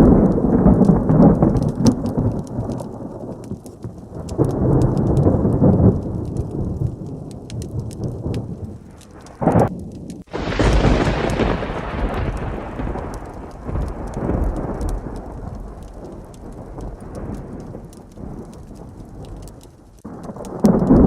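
Thunderstorm with heavy rain: rolling low thunder that swells and fades, then about ten seconds in a close thunderclap breaks with a sudden sharp crack and rumbles away over several seconds. Fine scattered ticks of rain sound throughout.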